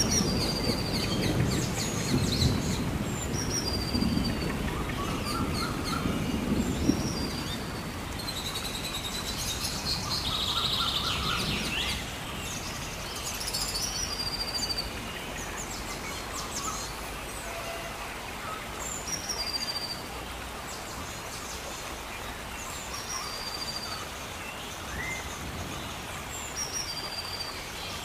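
Birds chirping in forest, short high calls repeating every second or two, over a low rumble that fades out about twelve seconds in.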